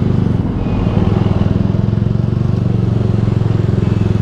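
Yamaha R15 V3's 155 cc single-cylinder engine, breathing through a Ronin Musashi aftermarket exhaust, running at a steady pitch while the motorcycle rides along.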